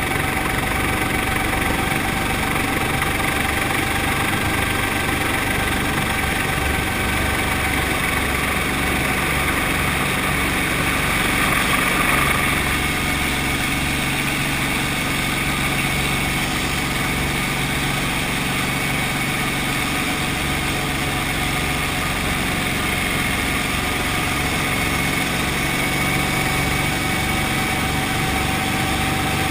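Brantly B2B helicopter's piston engine and rotor running steadily, with a slight rise in level about twelve seconds in.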